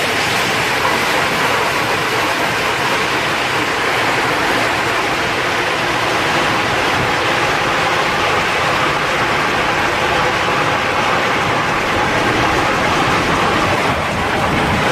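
Automatic car wash running over the car: a steady, loud rushing of water and wash machinery.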